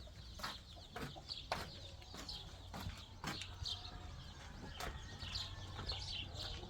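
Birds calling in short chirps, with scattered sharp clicks and knocks.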